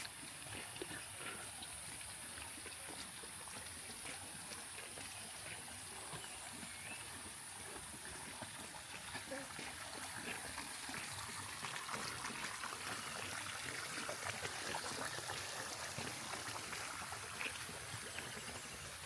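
Water trickling and running in a small stream or channel, a continuous splashing hiss that grows louder about halfway through, with a steady high-pitched hiss above it.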